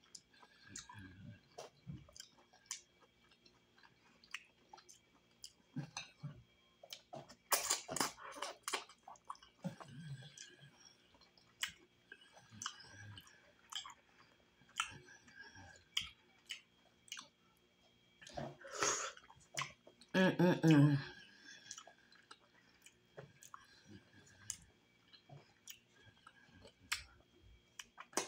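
Close-miked wet chewing and mouth clicks of someone eating chitterlings, soft boiled pork intestines. There is a cluster of louder clicks about eight seconds in, and a short voiced sound about twenty seconds in.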